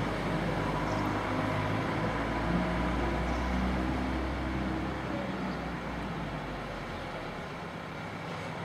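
Street traffic: a motor vehicle's engine runs with a steady low hum over general road noise, then fades away near the end.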